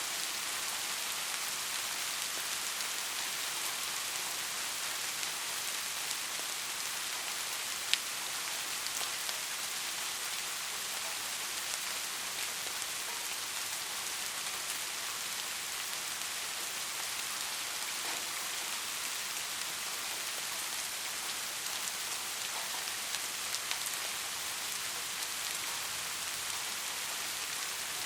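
Soft rain falling steadily, an even hiss of drops, with one sharp drop tick about eight seconds in.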